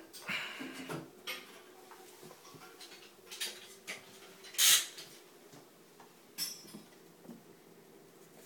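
Scattered light clinks and knocks of tools and pipe parts being handled during plumbing work. A short, louder, noisy scrape comes a little after the middle. A faint steady hum runs underneath.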